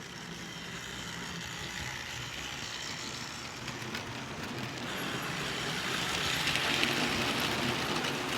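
Model electric train running along its track: a steady rushing whirr with faint clicks, growing gradually louder as it draws nearer.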